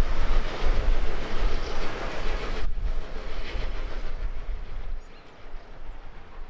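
Steam-hauled passenger train running away along the track: a rumble of carriages and wheels on the rails. The sound drops sharply about three seconds in and falls to a quieter level near the end.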